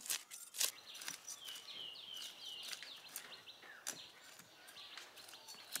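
A bird calling a quick run of about half a dozen short, falling chirps over faint outdoor background noise, with scattered sharp clicks.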